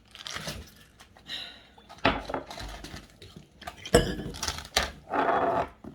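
Tableware clinking and knocking as dishes and utensils are handled, with sharp knocks about two and four seconds in.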